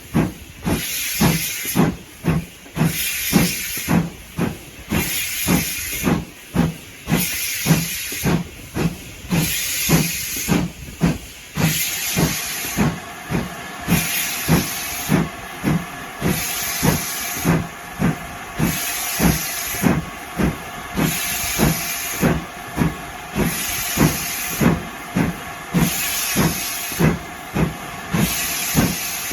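Steam locomotive working at a steady pace: a regular rhythm of exhaust beats, with steam hissing at roughly one burst a second. A faint steady tone joins about twelve seconds in.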